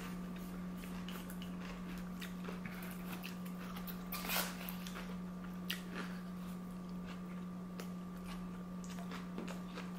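Close-miked chewing and eating sounds of sushi, with small scattered clicks and one louder brief crunch about four seconds in, over a steady low hum.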